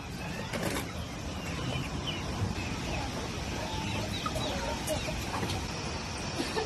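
Chickens clucking on and off in short, scattered calls over a steady background hiss.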